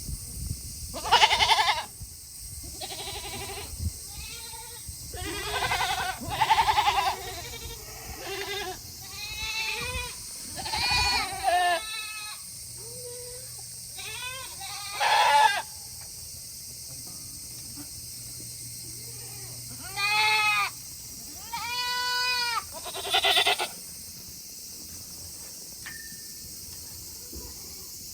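Several goats bleating in turn, a string of separate calls, some wavering and some held steady, with a short lull in the middle.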